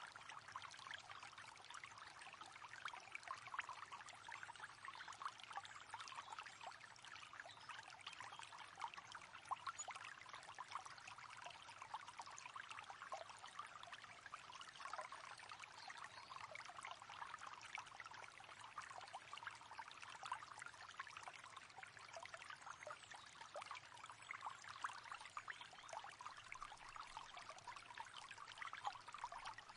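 River water flowing steadily over stones, a continuous faint burble of small splashes and trickles.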